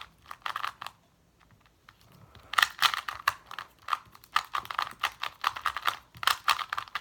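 Magnetic 2x2 speed cube being turned fast: quick plastic clicks as the layers snap around. There is a pause of about a second and a half, then a dense run of turning clicks from about two and a half seconds in.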